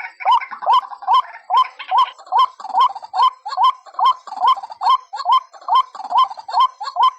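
White-breasted waterhen (ruak-ruak) calling over and over, as used for a bird-trapping lure call: short hooked notes repeated evenly about two and a half times a second.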